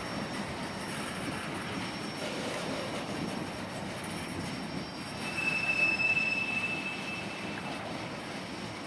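A train rolling past with a steady rumble of wheels on rail. About five seconds in, a single high-pitched wheel squeal rises over it for a couple of seconds and is the loudest sound.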